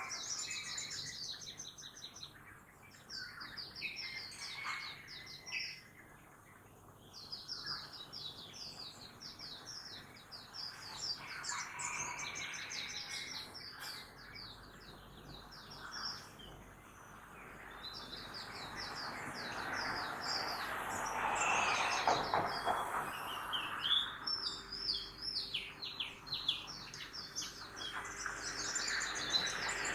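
Many small birds chirping in quick, overlapping trills throughout, over faint town noise; about two-thirds of the way through, a passing vehicle swells up and fades away beneath the birdsong.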